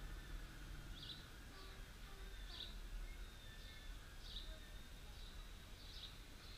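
Faint outdoor street ambience: a steady low rumble under a small bird's short high chirps, repeated about once a second.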